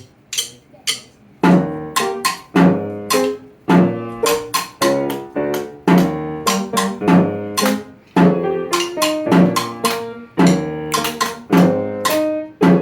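Band music: a few sharp taps, then from about a second and a half in a steady beat of drum hits under pitched low instrument notes.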